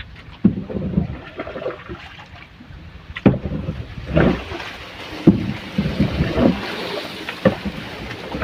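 Irregular knocks and thumps on a small boat, about six over several seconds, over a steady hiss of wind and water. No engine is heard running.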